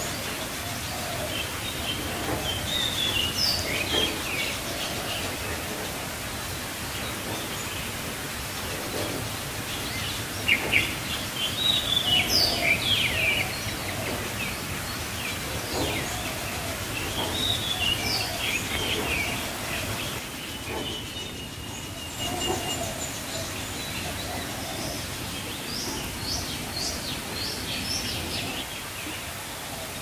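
Songbirds chirping and calling, many short calls scattered throughout and clustered most densely and loudly about ten to thirteen seconds in, over a steady background hiss.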